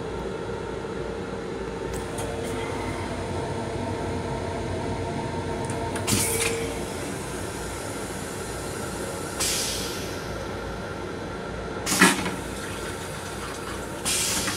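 Steady running noise of a Long Island Rail Road M7 electric railcar, heard from inside its restroom, with a steady hum that fades out around the middle. Four short bursts of noise break in, the loudest a sharp knock about twelve seconds in.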